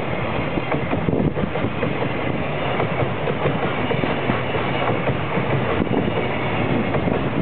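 Loaded container flatcars of a freight train rolling past close by, a steady rumble with the wheels clicking and clacking over the rails.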